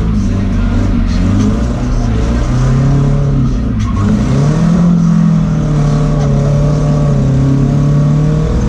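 Nissan 240SX's swapped-in KA24DE inline-four engine revving hard, heard from inside the cabin. The revs drop about four seconds in, then climb back and hold high.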